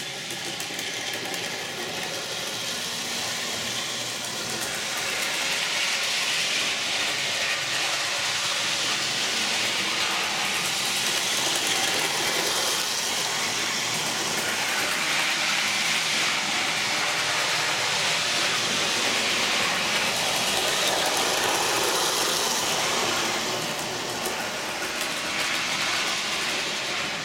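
Electric model train running around its track, a steady rolling and motor noise that grows louder about five seconds in and eases off near the end.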